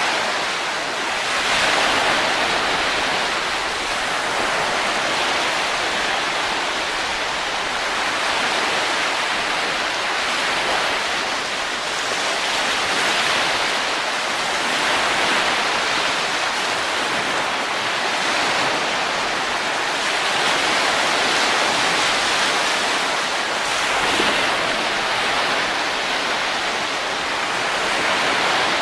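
Wind blowing: a steady rushing hiss that swells and eases every few seconds, with no music or tones.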